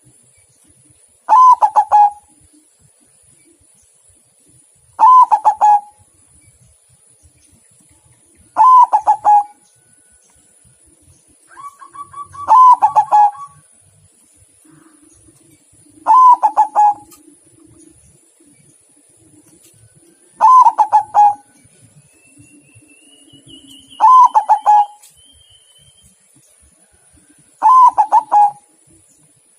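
Zebra dove (perkutut) singing its song phrase over and over: a short burst of quick coos, eight times, about every three and a half seconds.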